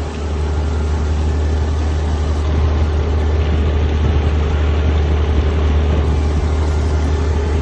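A vehicle's engine running steadily, a strong low drone with a constant rushing noise over it.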